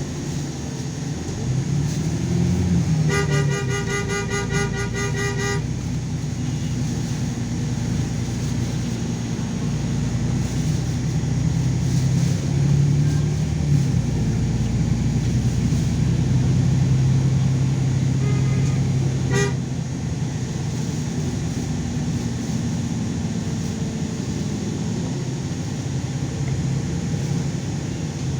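LiAZ 5292.22 city bus engine running, its pitch rising and falling as the bus speeds up and slows. About three seconds in, a rapidly pulsing, high-pitched beep sounds for about two and a half seconds.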